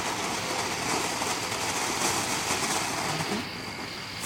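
Ground fountain firework spraying with a steady, even hiss and crackle, dying down about three and a half seconds in.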